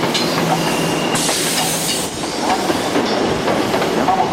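Hankyu electric train moving along the station platform, its wheels clicking over the rail joints with some faint squeal, and a short burst of hiss about a second in.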